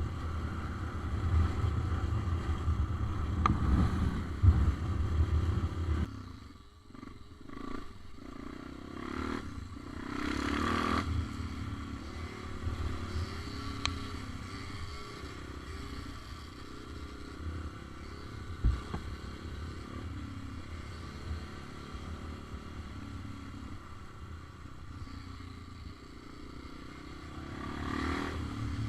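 Small motorcycle engine running, louder for the first few seconds, then steadier with the revs rising and falling.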